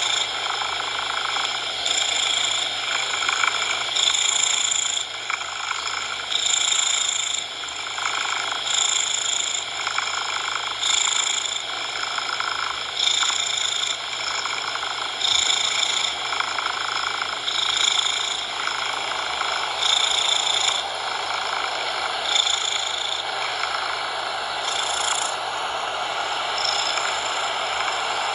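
Cat purring close up, swelling and easing in a slow, even rhythm about every two seconds, over a steady hiss of noise.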